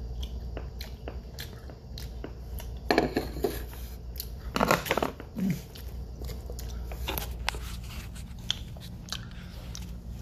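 A person chewing a small candy close to the microphone, with a run of small mouth clicks and two louder bursts of chewing about three and five seconds in.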